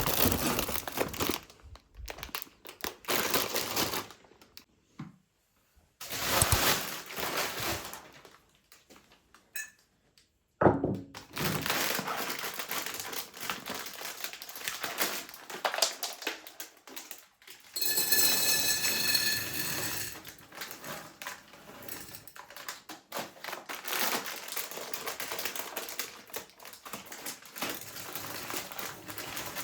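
Handling of groceries and kitchen items: clusters of quick clicks, taps and knocks of things being set down on a hard surface, with plastic packaging crinkling. About 18 seconds in there is a short high-pitched squeak.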